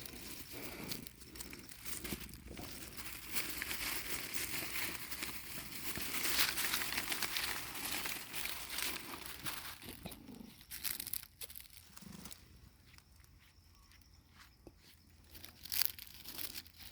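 Crinkling and rustling of paper or plastic. It is dense for the first ten seconds or so, then thins out to scattered crackles and clicks.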